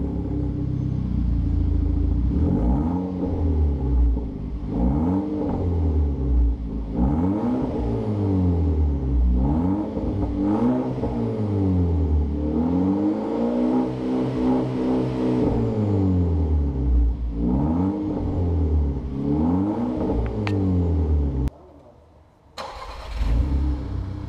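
SEAT Leon car engine revved over and over through a cat-back exhaust with a Borla muffler, the pitch climbing and falling every second or two, with one longer held rev in the middle. The sound breaks off briefly near the end and then comes back.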